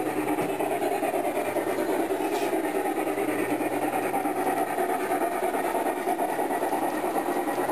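Model train running on its track: a steady rattling rumble with a quick, even pulsing.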